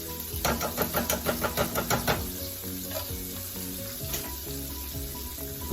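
Fish frying in hot oil with a steady sizzle. About half a second in comes a quick rhythmic run of clattering strokes, about six a second, lasting a second and a half, then the sizzle carries on alone.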